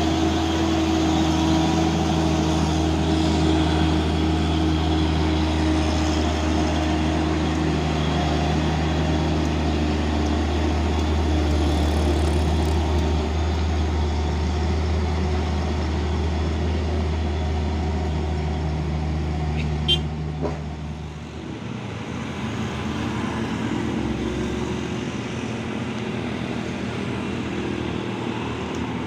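Heavy diesel truck engine running steadily under load as the laden truck crawls up a steep climb, with road traffic around it. The engine drone drops away about 21 seconds in, just after a sharp click, leaving quieter traffic noise.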